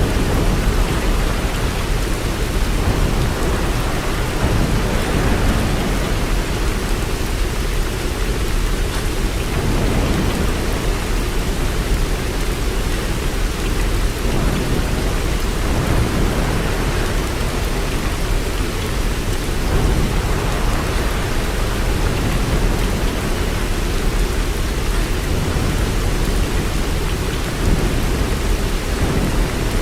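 Steady, even rain, with a deep low rumble underneath that swells and eases slowly.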